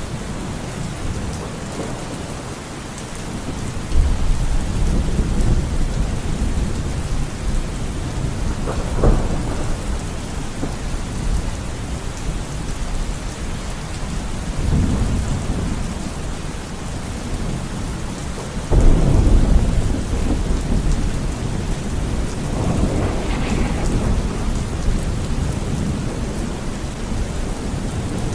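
Steady rain falling, with thunder rumbling several times over it; the loudest peal breaks in suddenly about two-thirds of the way through, and a sharper crack comes about 9 seconds in.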